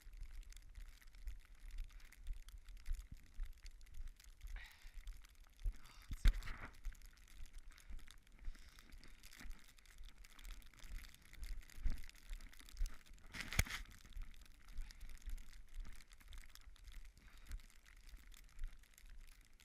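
Running footsteps crunching in snow, two to three a second, with a faint hiss of wind on the microphone. Two louder rustling bursts stand out, about a third and two thirds of the way through.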